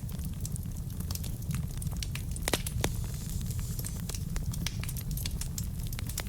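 Wood fire burning in a fireplace: a steady low rumble of flames with frequent sharp crackles and pops from the burning logs, a couple of louder pops about two and a half seconds in.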